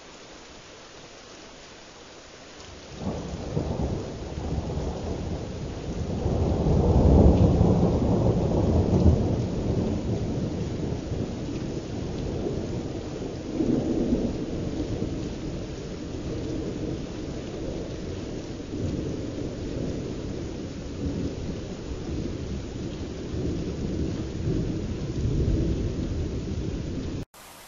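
A long rolling peal of thunder over steady rain. It starts about three seconds in, is loudest a few seconds later, then rumbles on with further swells before cutting off abruptly near the end.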